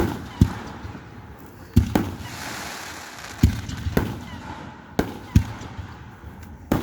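Aerial fireworks going off: about nine sharp bangs in quick, uneven succession, some in close pairs, with a hissing crackle after the fourth.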